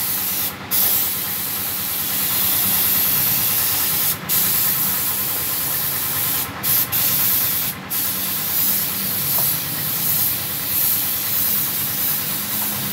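Paint spray gun hissing in long passes, cutting off briefly about half a second in, around four seconds in and a few times between six and eight seconds in. A steady low hum runs underneath.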